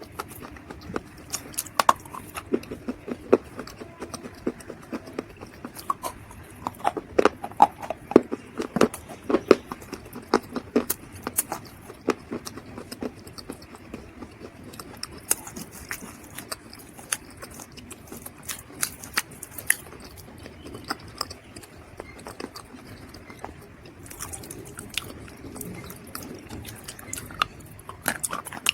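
Close-up crunching of dry mud being bitten and chewed: a run of sharp, crackly crunches, densest and loudest a few seconds in.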